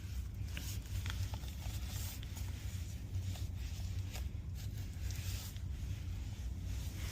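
Scattered rustling and crinkling from handling work materials over a steady low hum.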